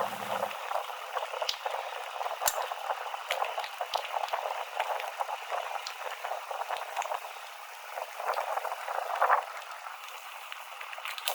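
Mountain bike rolling along a trail: a steady crackly rush of tyre noise, dotted with small clicks and rattles from the bike. It sounds thin, with no bass.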